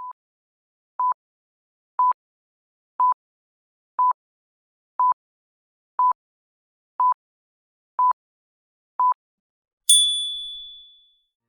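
Quiz countdown timer: ten short electronic beeps at one pitch, one a second, then a bright bell ding that rings out as the answer time runs out.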